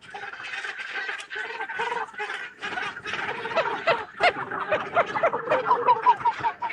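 A crowded Cape gannet breeding colony calling: many harsh, overlapping calls at once, with a run of short repeated calls near the end.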